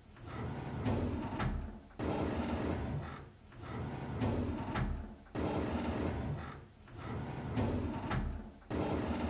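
A drawer being pulled open, a sliding noise with a click or two, repeated over and over: each pull starts abruptly, about two, five and a half, and nine seconds in, and fades before the next.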